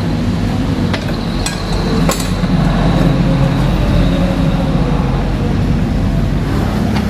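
Electric motor of a saw-blade sharpening jig running steadily, with a few sharp metallic clicks in the first two seconds and a thin high ring for a couple of seconds as the carbide teeth of a circular saw blade are ground.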